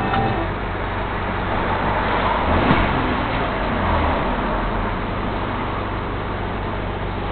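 Alfa Romeo GTV's 3.0 24-valve V6 running at idle through its new exhaust system, with a brief rise in engine pitch in the middle.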